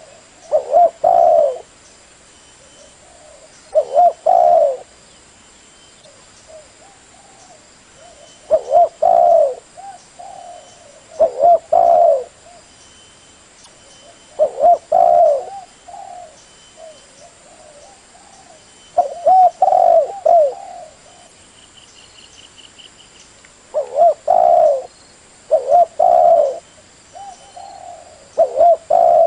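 Spotted dove cooing: short phrases of two or three low coos, repeated every three to five seconds. Faint high chirps of small birds sound between the phrases.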